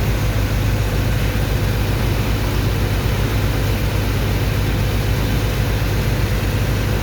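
Heavy engine of a sand-unloading dredger pump running steadily: a deep, even drone with a fast regular pulse, under a steady rushing hiss.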